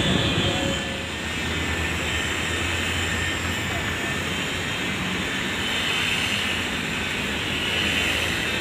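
Steady machine noise, a constant hum under a broad hiss, holding level without strikes or changes in speed.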